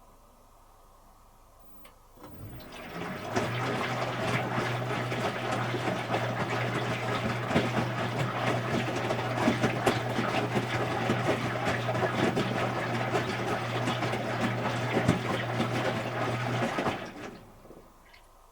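Water rushing through an Electrolux Wascator W355H commercial washing machine with a steady low hum under it. It starts about two seconds in, runs for about fifteen seconds and cuts off near the end.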